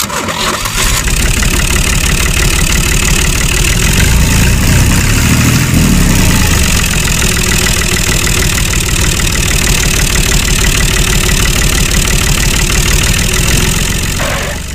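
A small engine running steadily and loudly with a fast, even pulse, growing a heavier low rumble for a few seconds around the middle.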